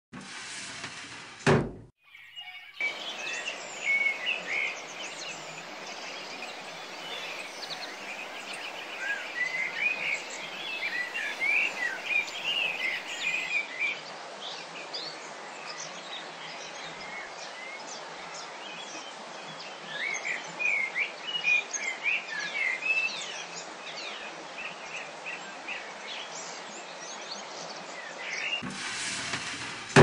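Birds chirping over a steady background hiss, in clusters of quick calls. There is a sharp thump about a second and a half in, before the chirping begins.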